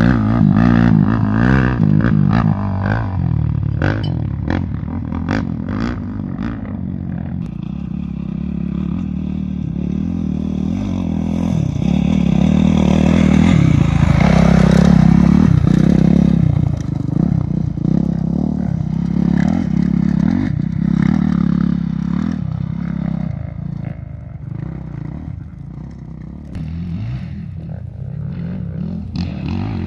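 A vehicle engine running, getting louder toward the middle and easing off again, with short clattering knocks in the first few seconds.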